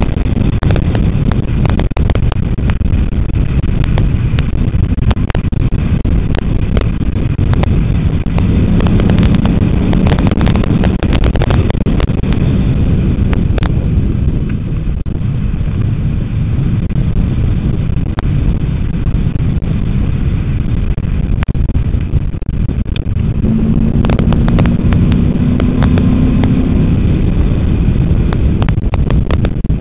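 Ford Mustang GT's V8 running hard on a race track under heavy wind rumble on the microphone. The engine note climbs twice under acceleration, about eight seconds in and again after about twenty-three seconds, with brief lulls in between where the driver lifts off.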